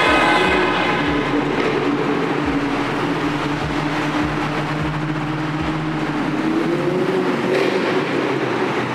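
A car engine running steadily at low revs, its pitch rising slightly about seven seconds in. Low thumps come every half second or so during the first six seconds.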